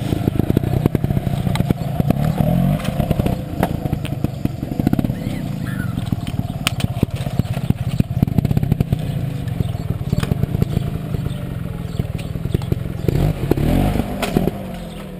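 GasGas trials motorcycle engine running close by, blipped in repeated short bursts of throttle, with a few sharp knocks as the tyres hit concrete steps and ledges.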